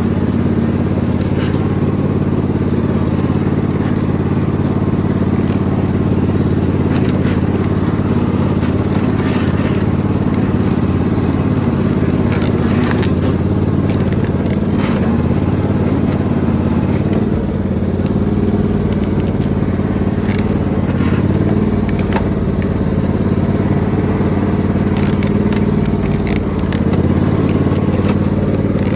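Riding lawn mower engine running steadily while the mower is driven through thick woods, with scattered sharp cracks and clatter over it.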